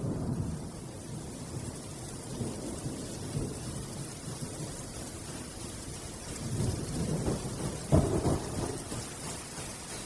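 Thunderstorm: rain falling with rolling rumbles of thunder, and a sharper, louder thunderclap about eight seconds in.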